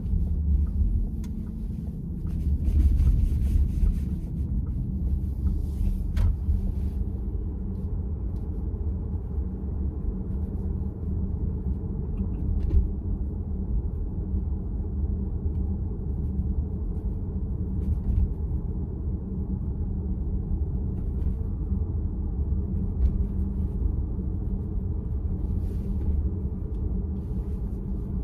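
Steady low road and tyre rumble inside the cabin of a VW ID.4 electric car while driving, with a couple of faint clicks. No steering-wheel clack stands out.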